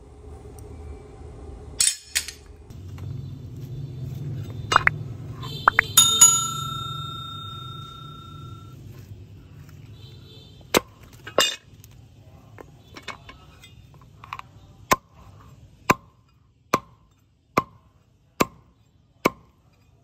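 Hammer striking metal on an anvil: a few scattered sharp clinks, one strike about six seconds in that leaves a clear metallic ring for a couple of seconds, then a steady run of single blows about one every 0.8 seconds in the last few seconds, over a low hum in the first half.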